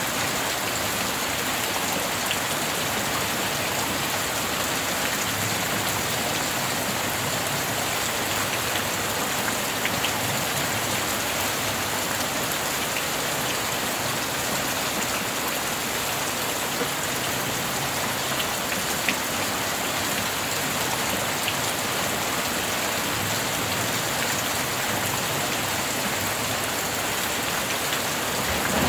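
Steady heavy rain falling, an even rushing hiss with a few single drops ticking out above it.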